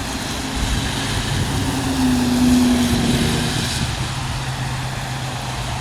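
Road traffic: a motor vehicle passes, its engine note swelling and dropping slightly in pitch about two seconds in, over a steady low hum of engines.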